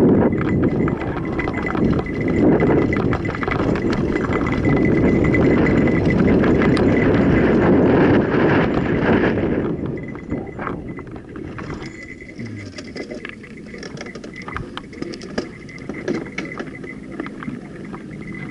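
Mountain bike riding a dirt trail: wind rush on the microphone with tyre and bike noise, loud for the first ten seconds or so, then easing off to quieter rolling with scattered clicks and rattles.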